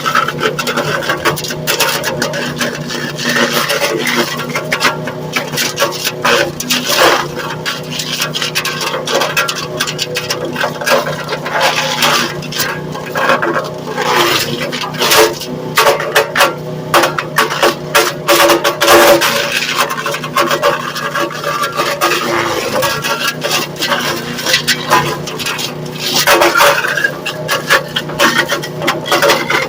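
Small wood chipper running steadily while chewing through pieces of wood, with a constant motor hum under a dense, irregular crackle of wood being chipped and a few louder bursts.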